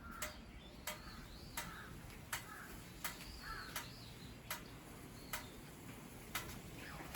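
Faint, fairly regular ticking, about one tick every 0.7 seconds, with faint chirps in between.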